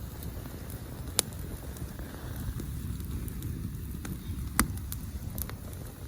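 Campfire crackling, with two loud sharp pops, one about a second in and one near the middle of the second half, and lighter ticks in between, over a steady low rumble.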